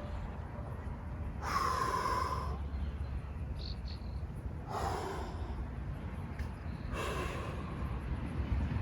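A man breathing hard from exertion: three heavy, forceful exhalations a few seconds apart, over a low rumble of wind on the microphone.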